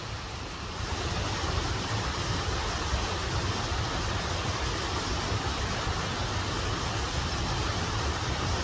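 Steady rush of a waterfall, an even wall of water noise that gets louder about a second in.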